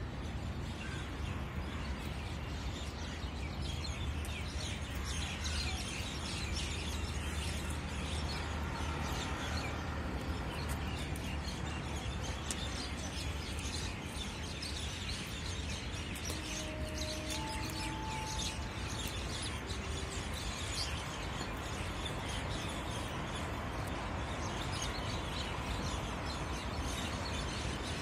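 Many birds chirping at once, dense and continuous, over a steady low rumble. A few brief steady tones sound around the middle.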